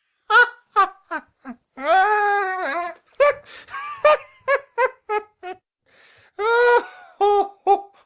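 A man laughing mockingly: runs of short, high-pitched 'ha' bursts, with one drawn-out note about two seconds in and another quick run of bursts near the end.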